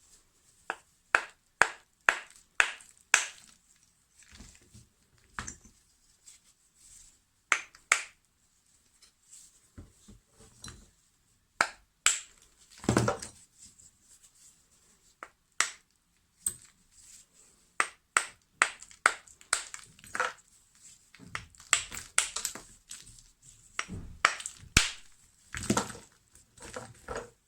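Lumps of natural chalk cracking and crunching: sharp, irregular snaps with short quiet gaps, coming thicker near the end.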